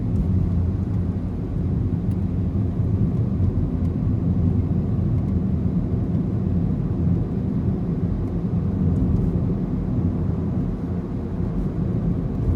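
A car driving along a road: a steady low rumble of engine and tyre noise, with no marked changes.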